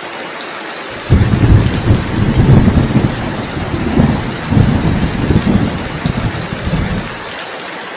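Steady heavy rain hiss, with a loud roll of thunder that breaks in suddenly about a second in, rumbles unevenly for about six seconds and dies away.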